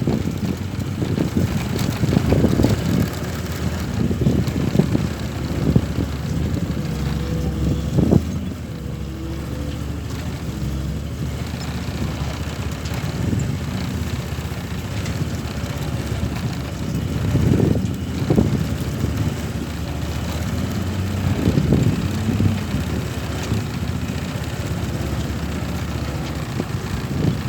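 Mitsubishi Fuso Fighter truck's diesel engine running while hauling a load of nearly 20 tons of sugar cane, swelling louder a few times as it pulls.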